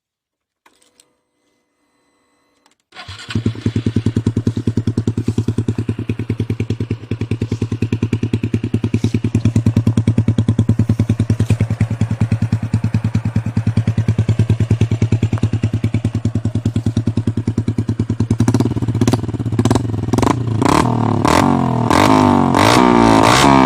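Motorcycle with a 'Nu Lam Luk Ka' aftermarket exhaust pipe starting up about three seconds in and idling with an even pulsing beat. From about eighteen seconds in it is revved in repeated blips, the pitch rising and falling, and it holds higher revs near the end.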